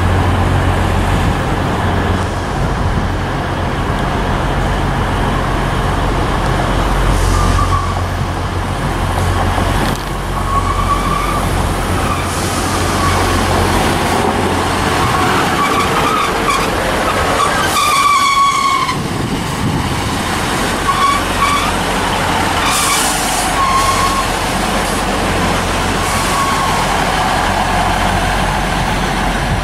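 Three coupled Class 153 diesel multiple units arriving, their Cummins diesel engines running with a steady low hum. High metallic squeals come and go as the train slows along the curving platform, loudest about eighteen seconds in.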